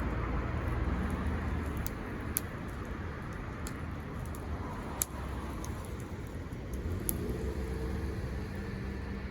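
Wood fire burning with a steady hiss and a few sharp crackling pops, over a continuous low rumble.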